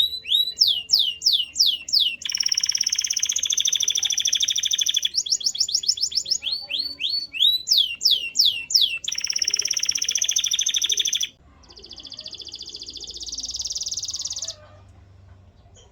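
Male canary singing a run of repeated phrases: fast swooping notes, about four or five a second, alternating with rapid buzzy rolls. A last, quieter roll swells and then the song stops.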